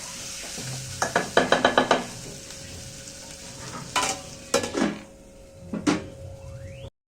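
Garlic and ginger frying in hot oil in a pot, sizzling steadily while a spoon stirs and knocks against the pot: a quick run of knocks about a second in, then a few single knocks later. The garlic and ginger are being cooked until brown.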